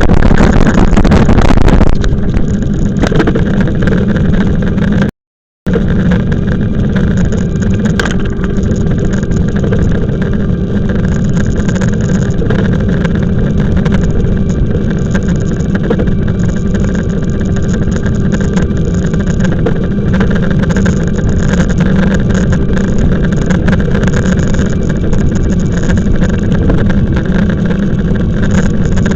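Riding noise from an e-bike on the move: wind buffeting the microphone and a steady rumble, with a faint steady whine on top. It is gustier for the first two seconds and cuts out completely for about half a second around five seconds in.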